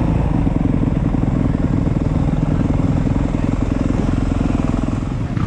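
Motocross dirt bike engines running steadily, a dense, even engine sound with no revving up or down.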